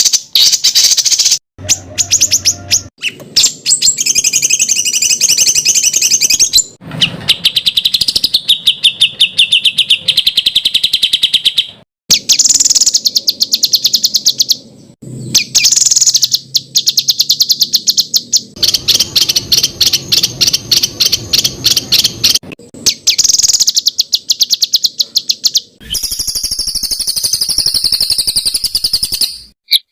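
Songbird song on a masteran training track: fast, harsh rapid-fire runs of repeated notes and chattering trills ('tembakan kasar'), cut abruptly every few seconds to a different phrase.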